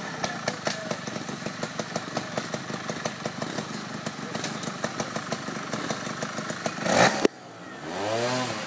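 Trials motorcycle engine running at low revs with irregular popping clicks as it is blipped over rocks, a loud short burst of throttle about seven seconds in. Near the end, after a sudden drop in level, an engine revs up and back down.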